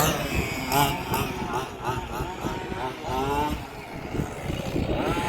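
Engines of 1/5-scale RC cars running and revving up and down in turn.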